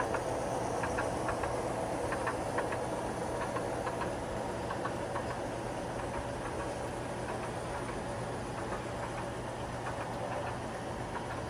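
A long train hauled by seven locomotives lashed up, running steadily: a constant hum with a scatter of light, irregular clicks, easing off slightly toward the end.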